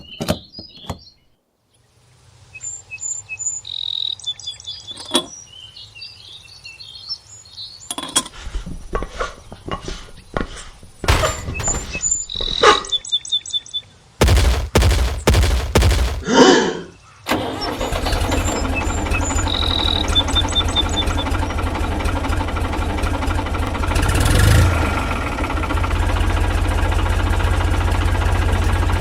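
Birds chirping, with scattered clicks and knocks. About halfway through, an engine-like drone starts up, stutters briefly, then runs steadily and loudly.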